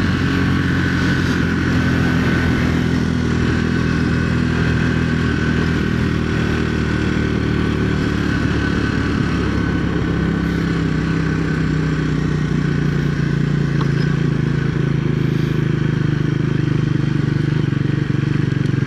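Triumph Speed 400's single-cylinder engine running with a steady thumper note, the low part of the note growing a little stronger in the second half.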